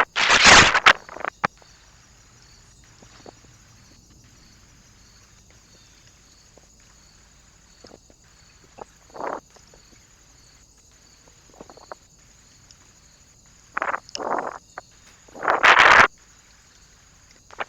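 Several short, sudden rustling and fluttering bursts from birds moving at a bird feeder perch. The loudest come at the start and again around fourteen to sixteen seconds in, with a weaker one in the middle.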